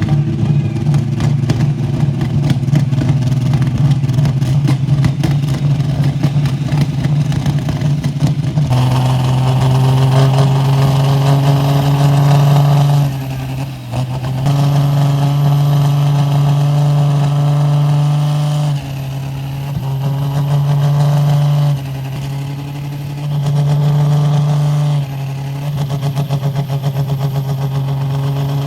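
Super sport class pulling tractor's engine running hard and loud. For the first nine seconds or so it has a rough, rapid pulse, then settles into a steady high note that drops away briefly four times.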